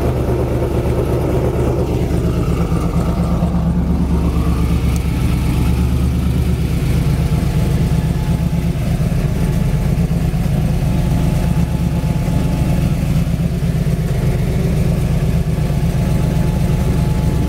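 1999 Pontiac Trans Am WS6's LS1 V8, fitted with a Comp Cams 224/224 camshaft on a 114 lobe separation angle, idling steadily through long-tube headers and a 4-inch exhaust. It is heard first at the exhaust tip, then from inside the cabin.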